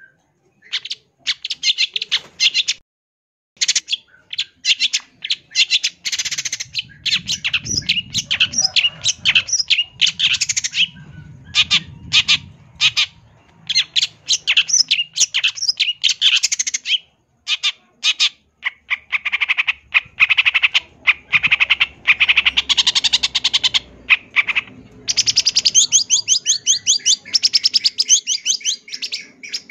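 Long-tailed shrike (cendet) singing a long, rapid, chattering song of harsh scratchy notes and fast trills, broken by brief pauses.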